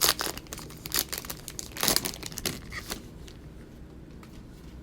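Wrapper of a trading card pack being torn open and crinkled by hand, in several sharp rustling bursts over the first three seconds that then die down.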